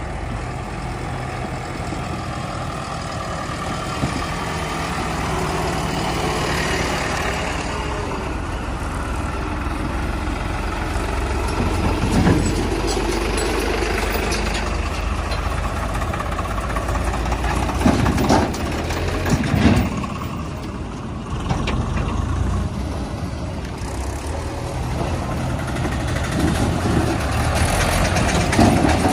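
Heavy diesel engine running steadily, with a few brief louder swells in the middle and near the end.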